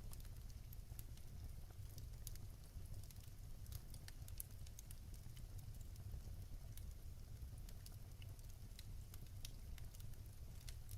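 Fireplace fire crackling, with irregular small pops and snaps over a steady low rumble.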